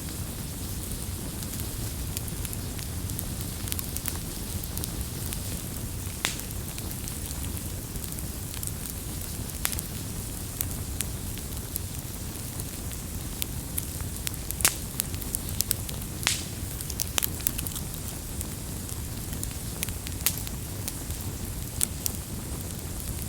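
Campfire burning: a steady low rush of flames with irregular crackles and pops, a few sharper, louder pops standing out now and then.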